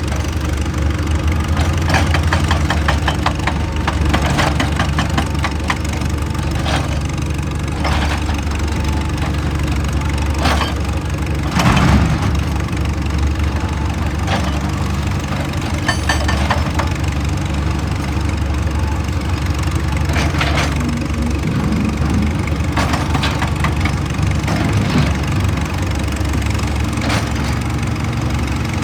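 Excavator's diesel engine running steadily, with short knocks and scrapes every few seconds, the loudest about twelve seconds in.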